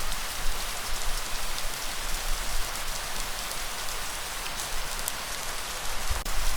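Light rain falling steadily, individual raindrops ticking on a surface. A low rumble swells near the end.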